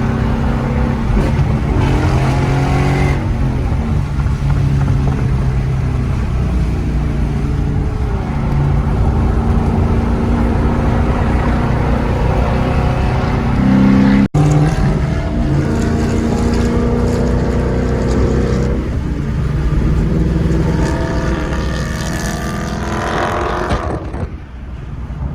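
Car engines running at a close, steady level, with several revs or accelerations whose pitch climbs. The sound breaks off abruptly for an instant about 14 seconds in and another engine picks up.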